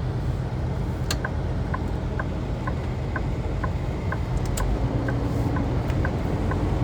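Semi-truck engine running steadily, with a regular ticking about twice a second that starts about a second in, like a turn-signal indicator, and a couple of sharp clicks.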